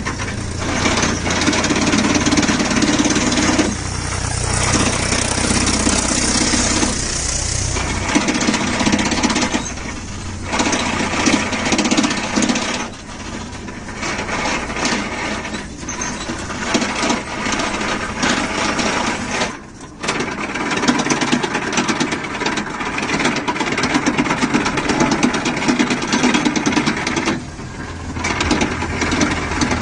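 Swaraj 735 FE tractor's diesel engine running with a dense mechanical clatter; the deep low rumble falls away about eight seconds in, and the sound dips briefly three times later on.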